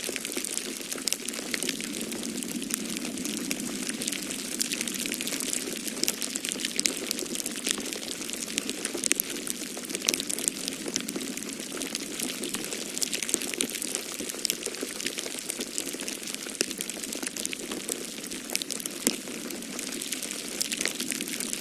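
Wood fire in a fireplace crackling, with many irregular sharp pops and snaps over a steady low rush of snowstorm wind.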